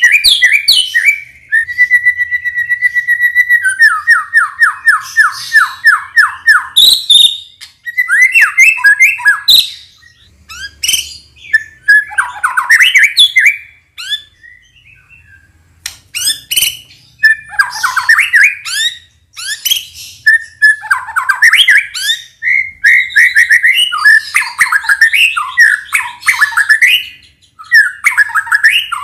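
White-rumped shama (murai batu) singing loudly: a held whistle, then a fast run of repeated notes, then varied phrases of chattering and rattling notes separated by short pauses.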